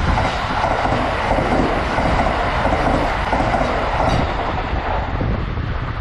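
Kintetsu 80000 series Hinotori electric limited express running past close by on the nearest track: a loud, steady rush of wheel and rolling noise that dies away near the end.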